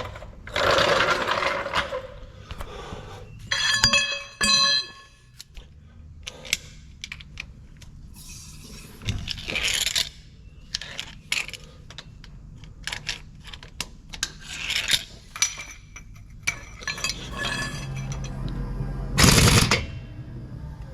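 Metal tools and parts clinking, knocking and scraping in irregular bursts, with a ringing metal strike about four seconds in and a loud scrape near the end.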